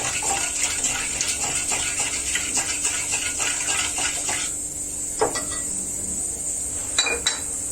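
Salt being stirred into water in a dish to dissolve it: busy scraping and clinking for about four and a half seconds, then a few separate clinks.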